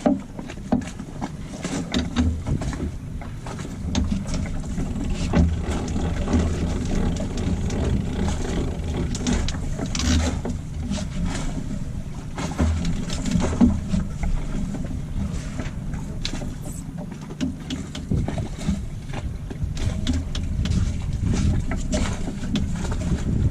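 On a sailboat under way: a steady low rumble of wind and water, with scattered clicks and knocks throughout.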